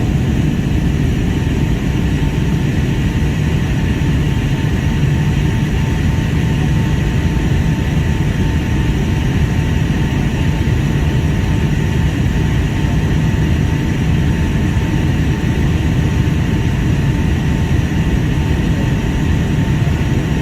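Steady cabin noise of a Boeing 757-200 airliner in flight on the approach to landing: a constant low rush of engines and airflow with a faint steady whine running through it.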